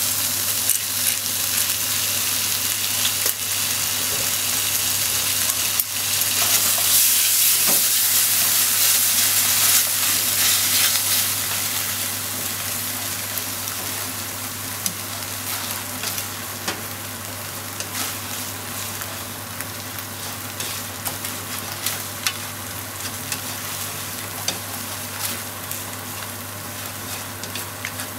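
Squid, sliced onion and ketchup sizzling in a hot frying pan as they are stir-fried with long chopsticks, which click against the pan. The sizzle swells louder about six seconds in, then eases and stays steady.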